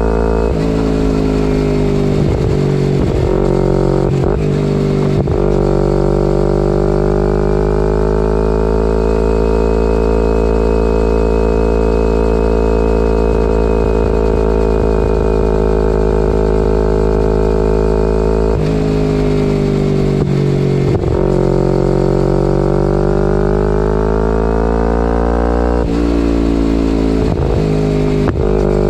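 2011 Kawasaki Ninja 250R's parallel-twin engine running loud through a full Graves race exhaust. Its pitch rises and falls, with several quick sharp dips in the first few seconds and again near the end, and a long steady stretch in the middle.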